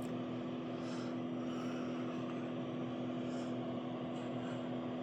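Steady hum and whir of electric heater fans and a portable power station running under load, an even drone with a constant low hum tone that does not change.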